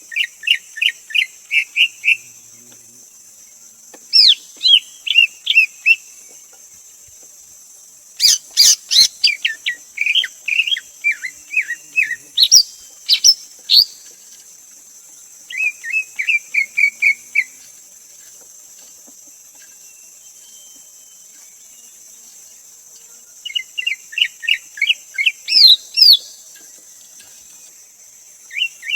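Greater green leafbird calling in bouts of rapid, clear whistled notes, each bout a quick run of short sliding notes, repeated several times with pauses between.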